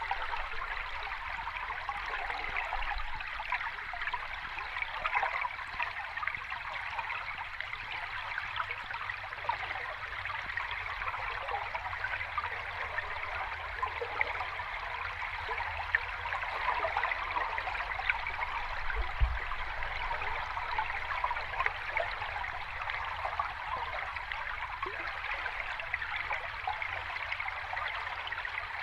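Sea water washing and fizzing at the shore in an even, steady wash with no distinct wave swells. A brief low thump comes about two-thirds of the way through.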